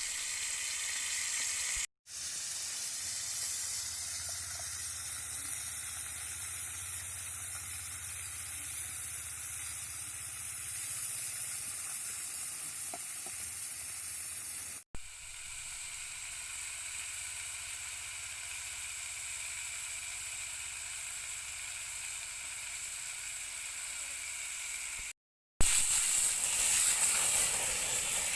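Beef steak sizzling as it cooks, a steady high hiss. It breaks off in three short silent gaps and is louder after the last one, near the end.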